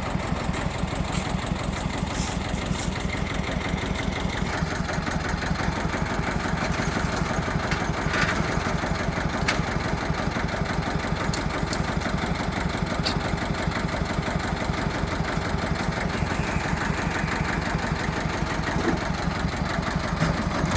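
Tractor engine running steadily at low speed with an even, rapid pulse while towing a dead diesel pickup, with a few light clicks and rattles.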